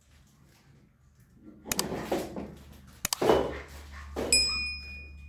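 Metal tools and parts being handled while a scooter is taken apart: a couple of sharp clicks and some handling noise, then about four seconds in a metal piece clangs and rings with a clear tone for about a second.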